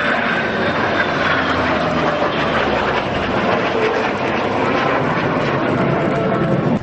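Aircraft flying overhead with loud, steady engine noise that cuts off abruptly near the end.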